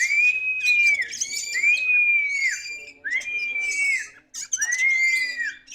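Oriental magpie-robin (kacer) singing: about four long arched whistled notes, each about a second, repeated with short gaps, with quick high twittering above them.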